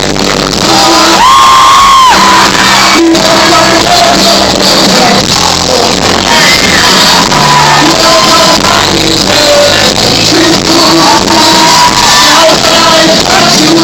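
Live band with singing, recorded loud and distorted on a phone, with the audience shouting and singing along; a high held shout rises out of the mix about a second in.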